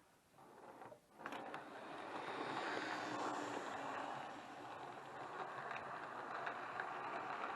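OO gauge model train running along the layout track: a steady whirr of the small electric motor and wheels on the rails, starting abruptly a little over a second in, with a few light clicks over the rail joints.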